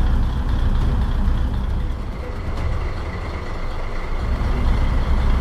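A large vehicle's engine running steadily with a low rumble.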